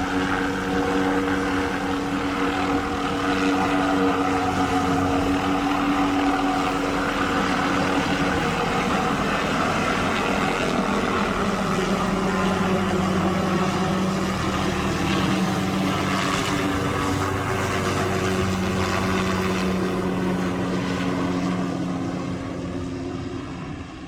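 MD 500 helicopter flying close by, its turbine and rotor making a loud, steady drone with several tones that shift in pitch partway through. It fades a little near the end.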